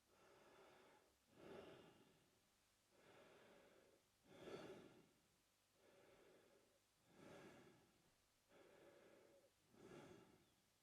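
A man breathing slowly and quietly through his mouth. There are about four breath cycles, each a longer, softer breath followed by a shorter, louder one, repeating roughly every three seconds.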